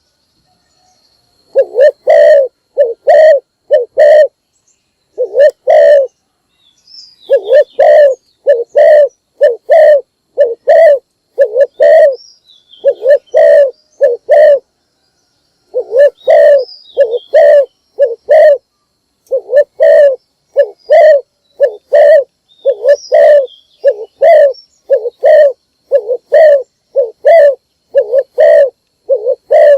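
Spotted dove cooing: a long run of low, hollow coo notes repeated about twice a second, with short pauses between runs. Faint high chirps of small birds sound behind it now and then.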